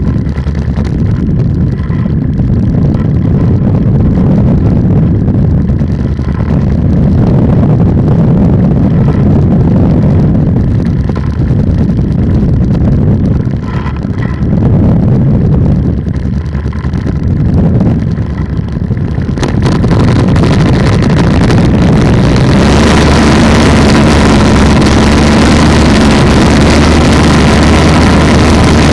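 Polini 190 single-cylinder two-stroke engine running on an ATF ultralight trike, with wind buffeting the microphone. About 22 seconds in, the engine note turns steadier and louder.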